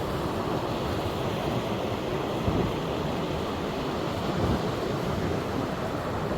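Surf washing on the beach in a steady rush, with wind gusting on the microphone.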